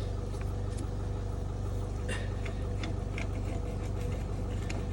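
A vehicle engine idling steadily, with a few faint clicks and knocks about two to three seconds in as the trailer's jockey wheel clamp is worked loose.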